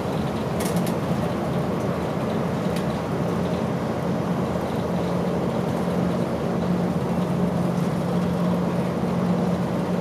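Route bus engine and road noise heard from inside the bus cabin while it drives, a steady drone with a few light clicks or rattles in the first three seconds.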